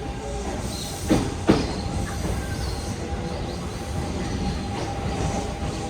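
Kintetsu 6432-series electric train pulling away from a station: a steady low rolling rumble, with two sharp wheel knocks over rail joints a little after a second in.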